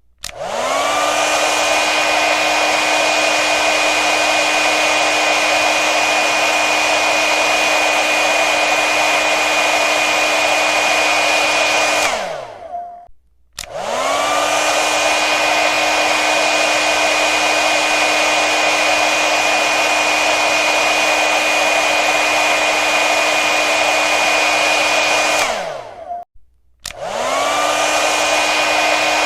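Hair dryer blowing with a steady motor whine over the rush of air. About every twelve seconds it is switched off, its whine falling as the motor spins down, and after about a second's silence it is switched on again, the whine rising back to speed.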